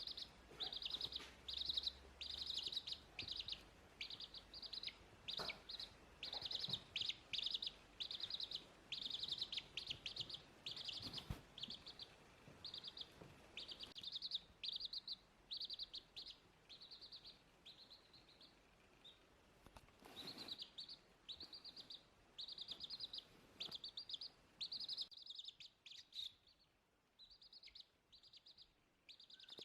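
Small birds chirping in quick, high, repeated bursts of short notes, one burst after another.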